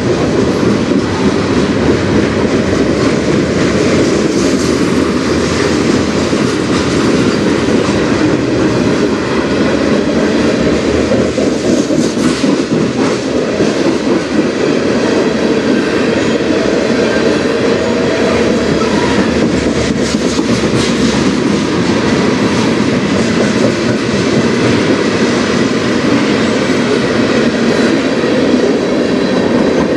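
Train cars rolling past steadily on the rails, with scattered clicks from the wheels.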